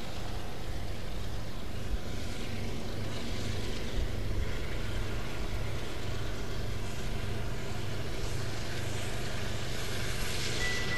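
Train rolling past with a steady low rumble. A steady high-pitched tone starts near the end.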